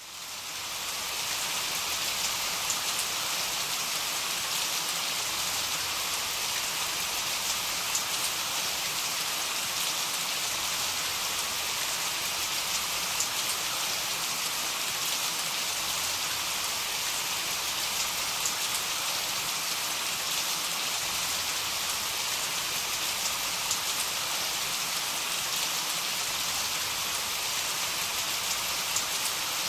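Heavy rain falling steadily: a dense, even hiss with scattered sharper drop ticks, fading in from silence over the first second.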